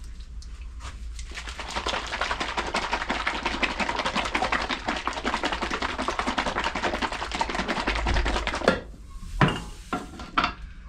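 A bottle of Raptor liner being shaken hard by hand to mix it: a fast, steady rattling and sloshing that stops suddenly about nine seconds in. A few separate knocks follow as the bottle is handled.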